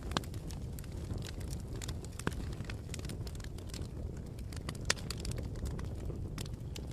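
Wood bonfire crackling: a steady low rumble of burning with irregular sharp pops, the loudest about five seconds in.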